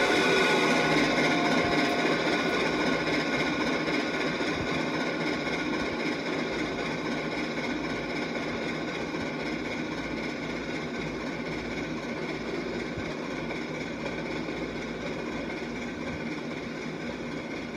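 Passenger train hauled by Reading 2102, a steam locomotive, rolling past with a steady running rumble that slowly fades as it moves away.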